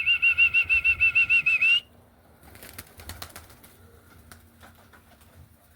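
A trilled, warbling whistle, pulsing about eight times a second for nearly two seconds, calling young roller pigeons in to land. About a second after it stops comes a short, faint flutter of clicks.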